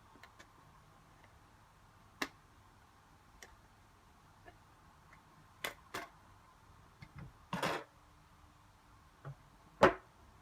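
Irregular clicks and light knocks of small hard parts being handled, with a short scrape about seven and a half seconds in and the loudest knock near the end.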